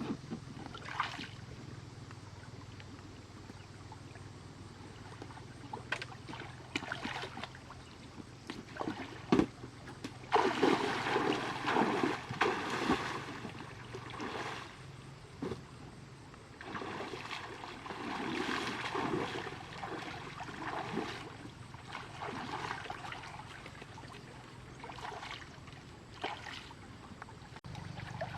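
Water splashing and trickling in irregular bursts, with a few sharp knocks; it is loudest from about ten to fourteen seconds in and again around eighteen to twenty-one seconds.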